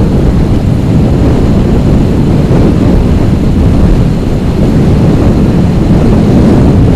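Loud, steady wind noise buffeting the microphone of a camera on a moving bicycle.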